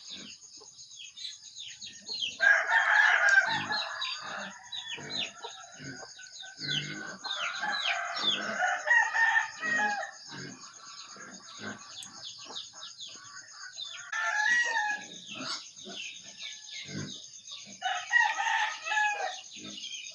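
Chickens clucking, with four louder bouts of calling that include rooster crows, over a steady high whine.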